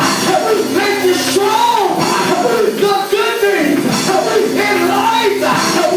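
Loud live gospel church music, with held low instrument tones under singing and shouting voices.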